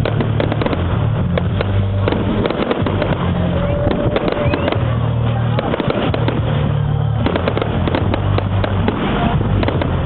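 Fireworks display going off without pause: a dense run of crackles and bangs over a heavy low rumble.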